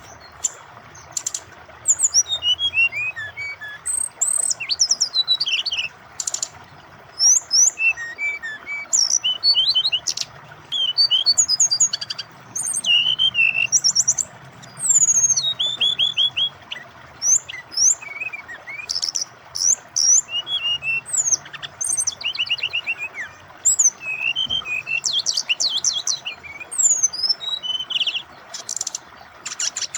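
Brown-chested jungle flycatcher (SRDC) in full, varied song: a nonstop run of quick chirps, rapid trills and sharp whistled slurs, over a steady hiss of flowing water.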